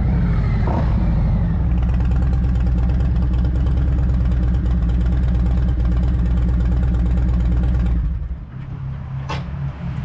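Harley-Davidson Road Glide's Milwaukee-Eight 117 V-twin running through TAB Performance 4.5-inch slip-on mufflers: a loud, deep exhaust note whose pitch shifts in the first second or two, then holds steady. About eight seconds in the revs drop back to a quieter idle, and a brief sharp squeak-like sound comes just after.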